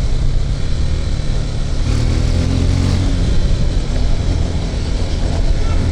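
KTM RC 390 single-cylinder engine running on its stock exhaust as the motorcycle rides through traffic, a steady loud engine note with road and wind noise.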